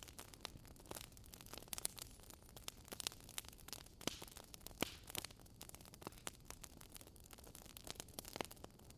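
Wood fire crackling in a fireplace: irregular sharp pops and snaps from the burning logs over a faint steady hiss.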